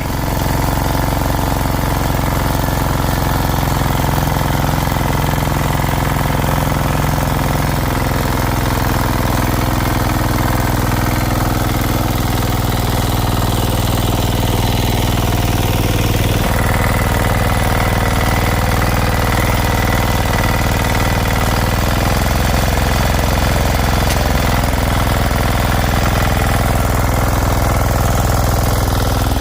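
A small engine running steadily under load with a low, even drone; its note shifts slightly about sixteen seconds in.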